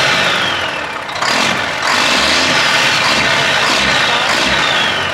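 Old Mack diesel truck engine running loud and being revved. It dips briefly about a second in, then picks back up, with a high whistle falling in pitch near the start and again near the end.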